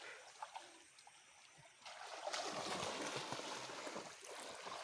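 River water rushing and splashing, fainter at first and louder from about two seconds in.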